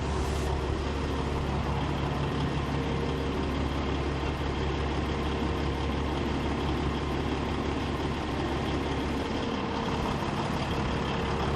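Rally truck engine idling steadily at the start line, a deep, even drone with no revving.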